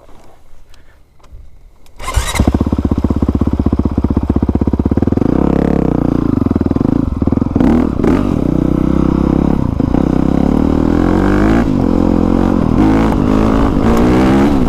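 2020 Honda CRF450R's single-cylinder four-stroke engine firing up suddenly about two seconds in, running steadily, then rising and falling in pitch with the throttle for the rest of the time.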